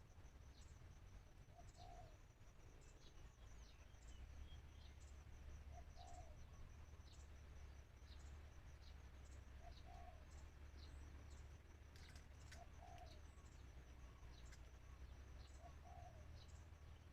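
Spotted dove cooing faintly, a short coo about every four seconds, over a steady high-pitched chirping.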